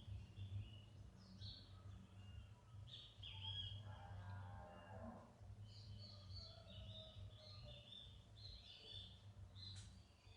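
Small birds chirping faintly: many short, high chirps, more of them in the second half, over a steady low rumble. About four seconds in, a longer and lower drawn-out call lasts a little over a second.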